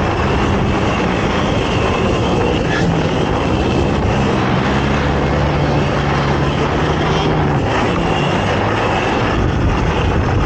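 ATV engine running hard during an off-road race, its pitch rising and falling with the throttle.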